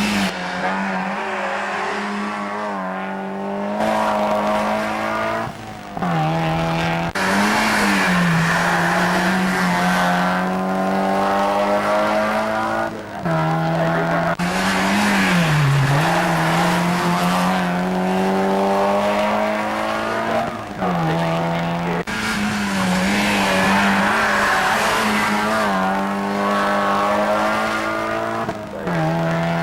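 Mazda MX-5 race car's four-cylinder engine running hard. Its pitch climbs steadily for several seconds, then drops sharply, about three times, as the car accelerates and then shifts or lifts for corners.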